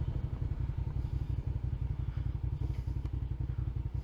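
Motorcycle engine running at a steady speed, a low, evenly pulsing exhaust note.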